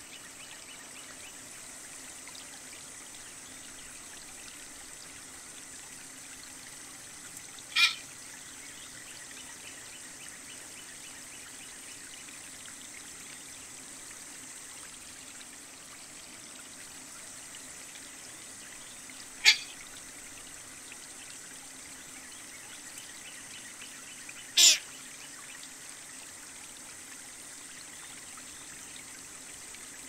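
Three brief, sharp bird calls, several seconds apart, over a steady background of trickling water.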